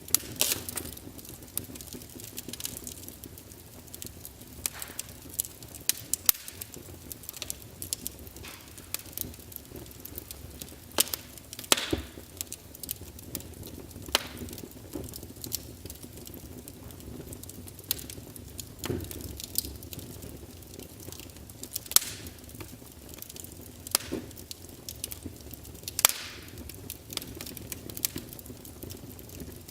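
Wood fire crackling in a fireplace: irregular sharp pops and snaps of burning logs over a low steady hiss, with a few louder pops spaced a couple of seconds apart.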